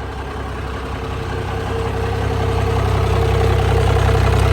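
Turbocharged diesel pickup engine of a burnout truck idling just after being jump-started. It grows gradually louder over the few seconds, and a steady hum joins in about a second and a half in.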